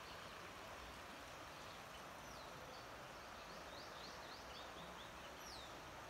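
Faint birdsong over a steady background hiss: a few thin falling chirps, then a quick run of short chirps in the middle and a falling whistle near the end.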